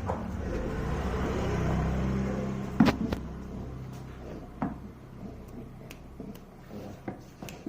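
A vehicle engine running and fading away over the first few seconds, with one sharp thump about three seconds in and scattered lighter knocks after it.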